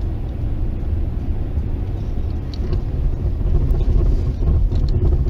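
Steady low rumble of a car driving on the road, engine and tyre noise, with a few faint ticks.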